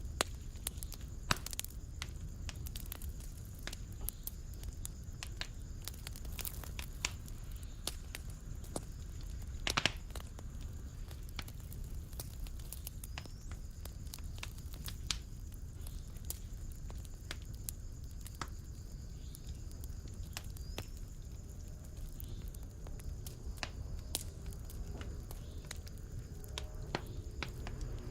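Fireplace fire crackling: irregular sharp pops and snaps over a low steady rumble, with one louder crack about ten seconds in.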